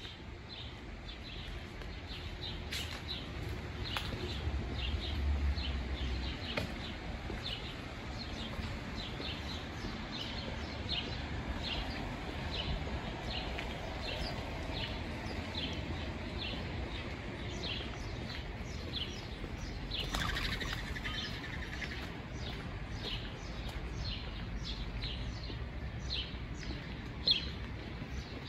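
A small bird chirping over and over at an even pace, roughly one and a half chirps a second, over a steady low outdoor rumble. A sharp click comes near the end.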